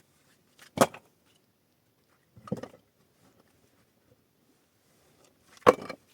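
Three separate knocks, a second and a half to three seconds apart, the first and last the loudest.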